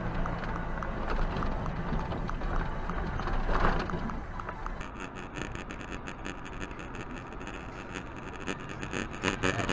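Vehicle running with steady rumbling road and engine noise, with a brief louder surge about three and a half seconds in. The sound changes abruptly about five seconds in to a quieter noise with faint ticking.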